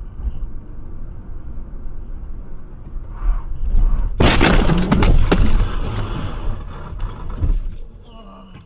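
Steady low road-and-engine rumble, then about four seconds in a sudden loud vehicle crash lasting about two seconds, dying away with a few sharp knocks.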